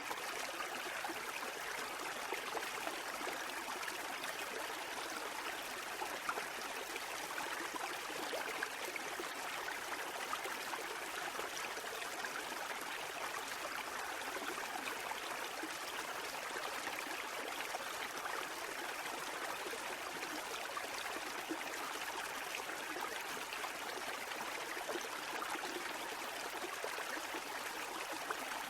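Water running steadily: a continuous rushing and trickling at an even level, with no rise and fall of breaking waves.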